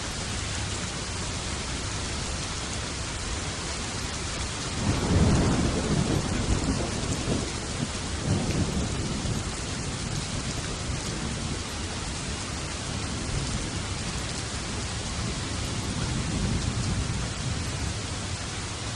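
Steady rain, with a roll of thunder about five seconds in that rumbles on for several seconds and swells again more softly near the end.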